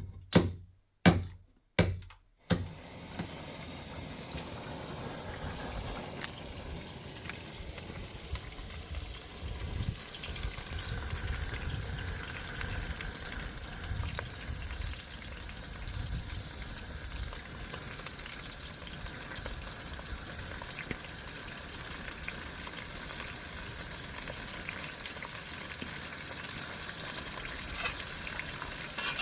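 Food frying in a pan: a steady sizzle, after a few sharp knocks in the first couple of seconds.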